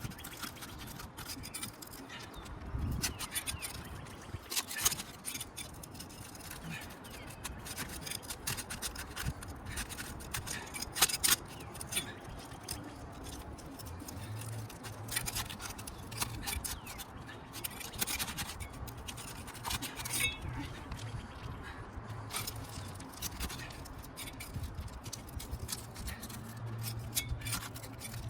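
Asphalt roof shingles being pried apart at their adhesive seal strips: irregular scraping and scratching with many sharp clicks and crackles. The roofer finds these shingles too brittle to be repaired.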